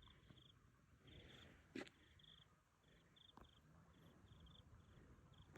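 Faint insect chirping: short high chirps at one pitch repeating in small groups, with two soft knocks about two and three and a half seconds in.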